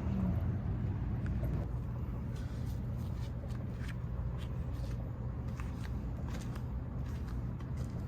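Scattered light clicks and scrapes of hands and tools working at a car's oil filter, over a steady low background hum.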